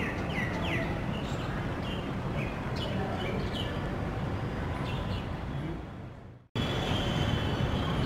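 Short bird chirps over a steady low background rumble. The sound fades out about six seconds in, then a new stretch begins with the rumble and a thin, steady high tone.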